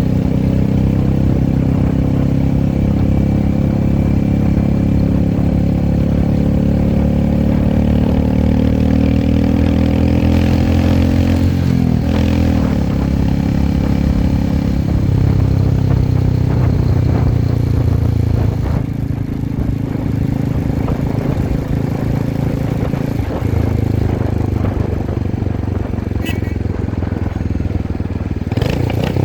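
Royal Enfield Himalayan motorcycle engine running under way. Its pitch climbs slowly for about eleven seconds, drops sharply at a gear change, then holds steady and eases off about two-thirds of the way in. A few sharp clicks come near the end.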